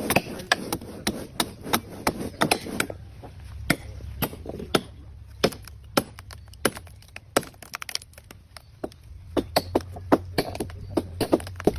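Repeated sharp blows of a hand tool chopping into palm-tree wood, irregular, about one or two a second, thinning out for a few seconds in the middle.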